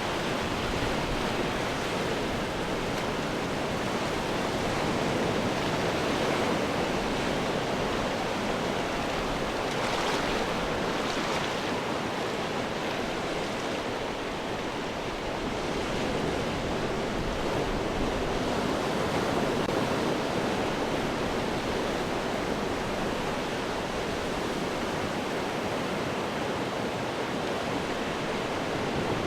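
Ocean surf breaking and washing over rocks, a continuous rushing roar that swells and eases gently, with a brighter hissing wash about ten seconds in.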